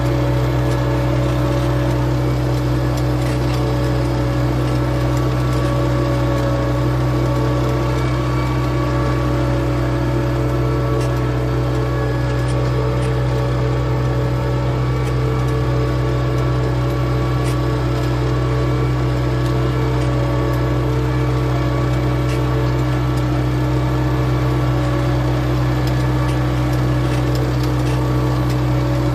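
A4800 tractor's engine running steadily at constant speed while it works the field with a disc plough, a loud even drone with no change in pitch.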